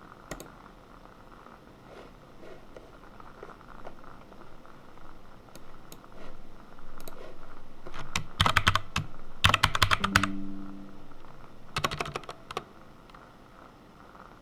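Typing on a computer keyboard: a few scattered keystrokes at first, then two fast runs of typing just past the middle and a shorter run a couple of seconds later.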